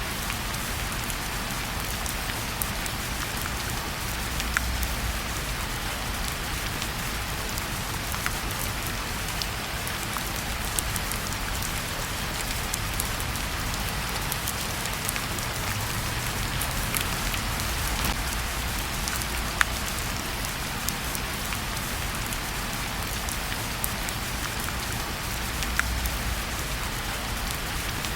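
Steady rain falling, with scattered sharp pops from a wood fire crackling in a fireplace.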